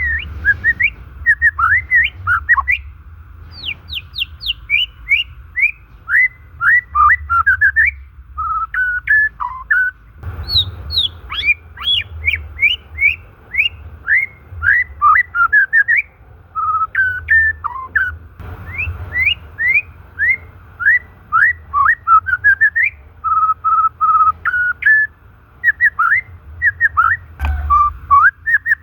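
White-rumped shama (murai batu) singing: a long, rapid run of clear whistled notes, most of them quick up- or down-sweeps, with a few brief breaks. A low rumble runs underneath.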